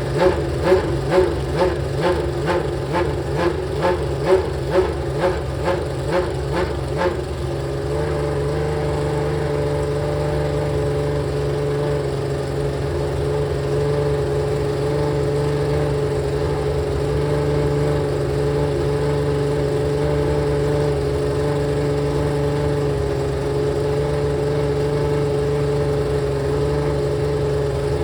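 Ferrari 639 Formula One car's V12 engine running. For about the first seven seconds it surges and falls back in even pulses about twice a second, then settles into a steady idle.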